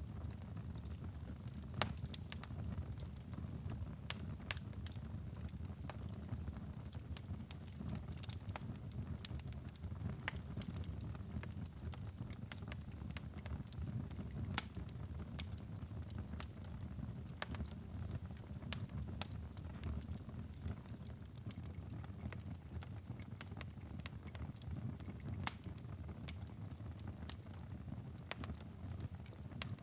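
Wood fire burning in a fireplace: a steady low rumble of flames with frequent small crackles and occasional louder pops.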